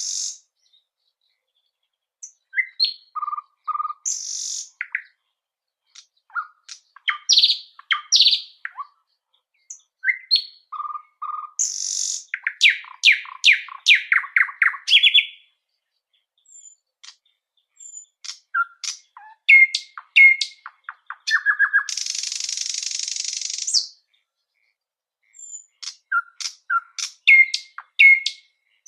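A songbird singing in short, varied phrases of chirps, whistled notes and rapid trills, separated by pauses. Near the end comes a harsh, buzzy hiss lasting about two seconds.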